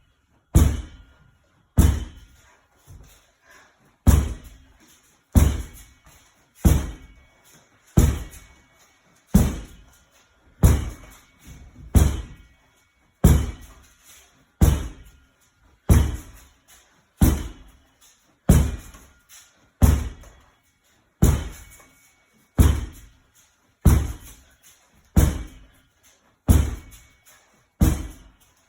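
A medicine ball thudding against a wall in steady wall-ball reps, one heavy slam about every 1.3 seconds.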